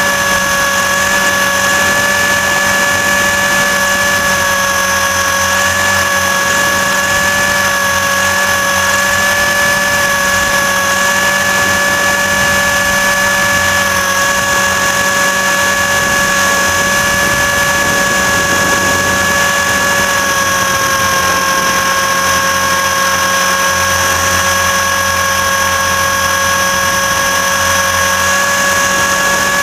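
RC helicopter's motor and rotor drivetrain running at steady speed, a loud high-pitched whine picked up by a camera mounted on the helicopter; the pitch drops slightly about twenty seconds in.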